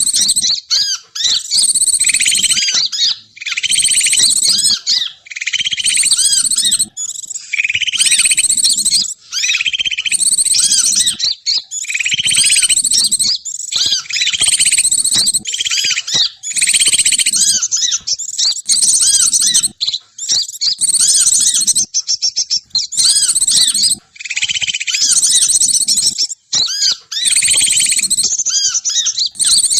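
Bird-lure call recording: dense, rapid high-pitched chirping and twittering in repeated bursts about every two seconds, played to draw wild birds down to a trap.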